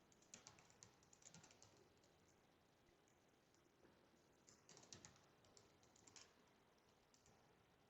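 Faint computer keyboard typing: two short runs of keystrokes a few seconds apart, with near silence between.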